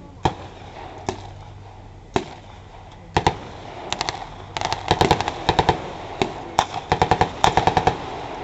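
Small-arms gunfire with blank rounds. A few single shots come first, then rapid strings of shots and short bursts from about the middle on.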